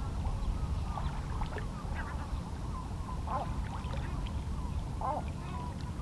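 Small waves lapping against shoreline rocks as a steady low wash, with many short bird calls from a flock of waterbirds scattered over it.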